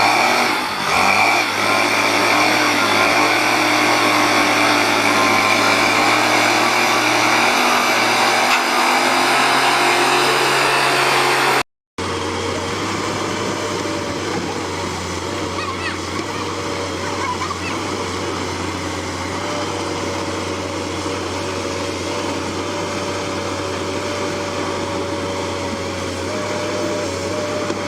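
Heavy vehicle engines running steadily with a constant low hum, broken by a sudden cut about twelve seconds in to a second, slightly quieter engine drone.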